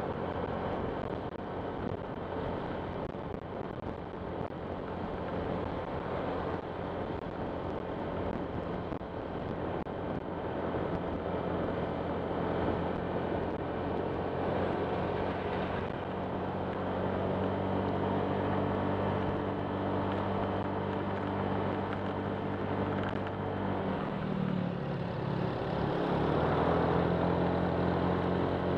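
Honda Click 125 scooter's single-cylinder engine running steadily under way, over a haze of wind and road noise. About three-quarters of the way through, the engine note drops and then climbs again.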